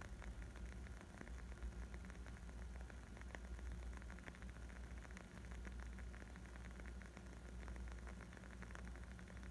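Wood fire crackling: a steady stream of small, quick pops and snaps over a low rumble.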